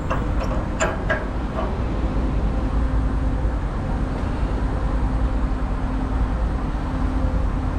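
Semi-truck's diesel engine idling steadily, a low rumble with a faint steady hum, and a few light clicks about a second in.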